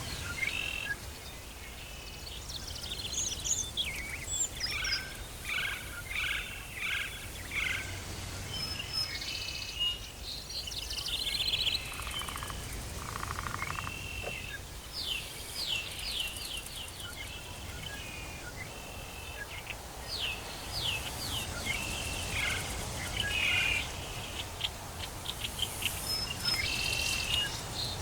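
Tropical forest ambience with several birds calling: quick runs of repeated chirps and short high whistles, one after another. A steady low rumble runs underneath.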